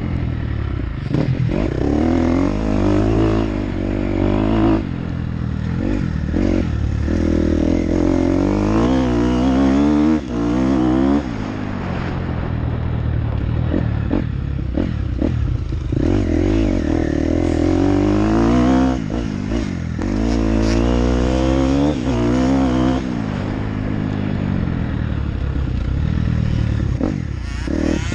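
Motocross dirt bike engine revving up and backing off again and again, its pitch climbing and dropping with each burst of throttle. Short knocks and clatter come through now and then.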